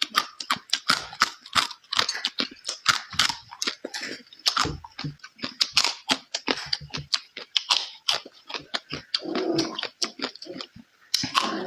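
Close-miked chewing and eating with wet mouth smacks, several a second, as in a mukbang.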